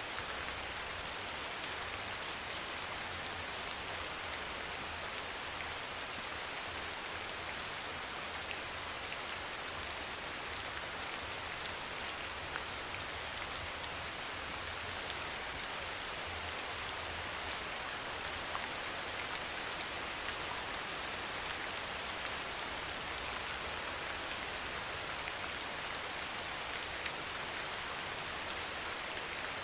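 Steady soft rain falling, an even hiss of rain with scattered small drop ticks and no change in strength.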